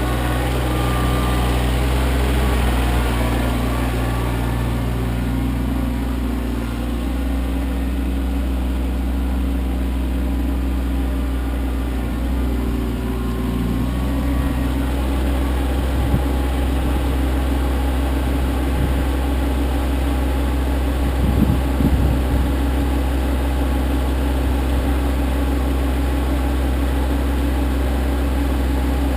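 Kioti CK25 compact tractor's diesel engine running steadily, its note shifting slightly about a third and half of the way through. A few short knocks come near the end.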